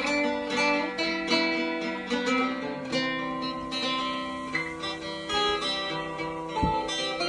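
Acoustic guitar music, plucked notes played in a slow, flowing run.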